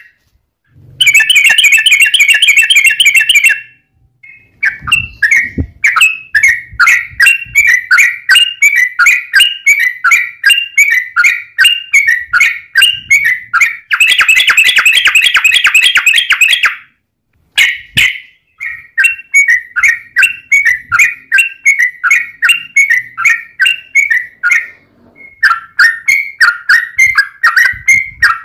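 Yellow-vented bulbul (trucukan) calling in a long run of quick, repeated chirping notes. Two harsh, dense bursts of rapid chatter break in, one about a second in and one about halfway through.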